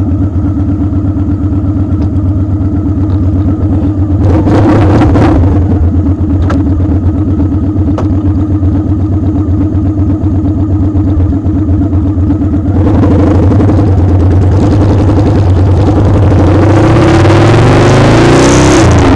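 Motorcycle engine idling with an even, steady pulse. About thirteen seconds in it gets louder, and over the last few seconds its pitch climbs as it accelerates, under a growing rush of wind noise.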